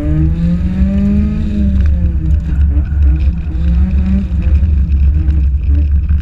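Toyota AE70 Corolla's 4A-GE four-cylinder engine revving, heard from inside the cabin: the revs climb for about a second, drop back, then rise and fall a little more, over a heavy low rumble.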